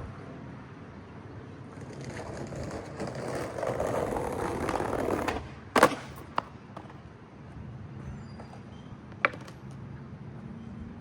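Skateboard wheels rolling on pavement, growing louder as the board comes closer, then a loud sharp clack of the board hitting the ground about halfway through. A lighter clack follows soon after, and another one near the end.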